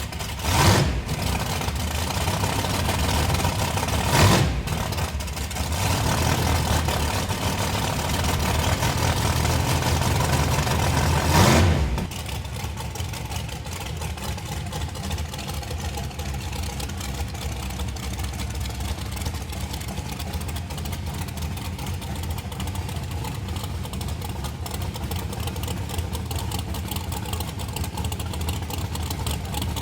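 Small-block V8 street car engine running hard, with sharp loud bursts about a second, four seconds and eleven seconds in. From about twelve seconds it settles to a steadier, quieter drone.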